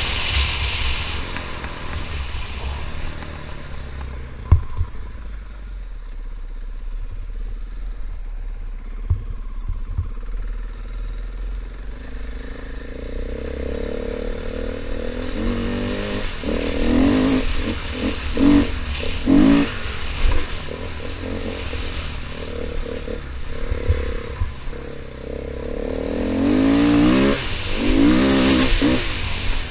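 KTM 500 EXC single-cylinder four-stroke dirt bike engine running under way, revving up in surges about halfway through and again near the end. A few sharp knocks and some clatter sound over a steady low rumble.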